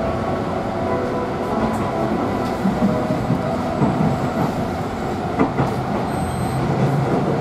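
Tobu 50090-series electric train running, heard from inside the passenger cabin: a steady running rumble with occasional wheel clicks over rail joints and points.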